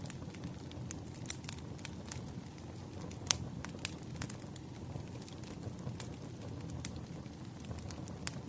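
Wood fire crackling: irregular sharp pops and snaps over a steady low rumble, with one louder pop about three seconds in.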